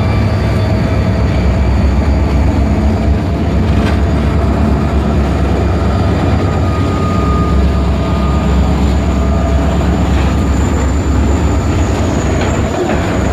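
Diesel freight train rolling past close by: a loud, steady rumble of locomotive and wagons on the rails. A thin high whine enters about ten seconds in.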